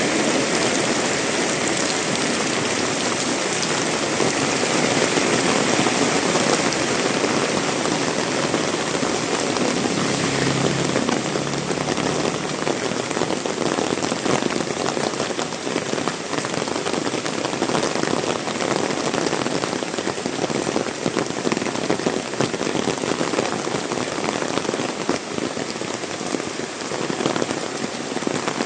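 Heavy rain falling steadily, a dense patter of drops hitting the surfaces around.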